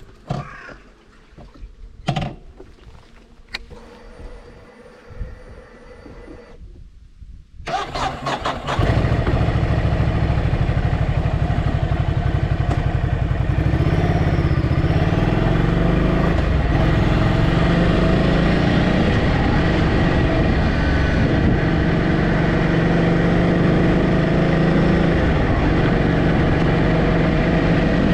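A few clicks and knocks, then an engine starts about eight seconds in and runs steadily close by, its pitch dipping and shifting slightly now and then.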